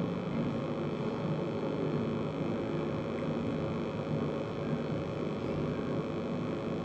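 Steady low hum and rumble of background noise, with no breathing strokes or other events standing out.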